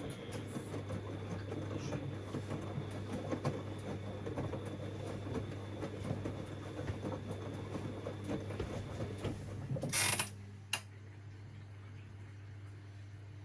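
Siemens Extraklasse XLs 140 A washing machine mid-wash, its drum turning with busy clattering and sloshing over a steady low hum. About ten seconds in comes a short hiss and a click, then the clatter stops and only the hum is left.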